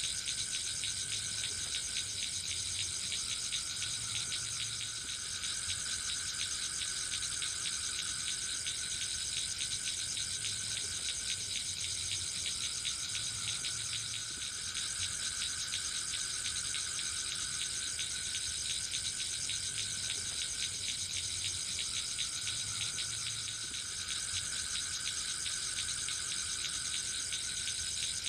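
Steady chorus of forest insects such as crickets, made of fast, dense trilling high up, with a lower band that wavers slowly in loudness.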